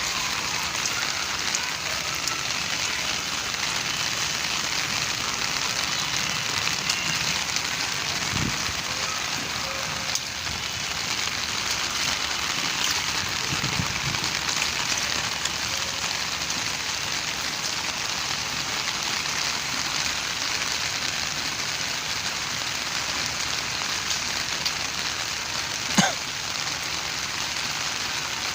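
Steady rain falling, with one sharp knock near the end.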